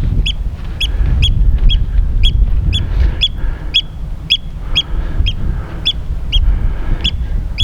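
A bird calling with a short, sharp, high note repeated evenly about twice a second, with wind rumbling on the microphone.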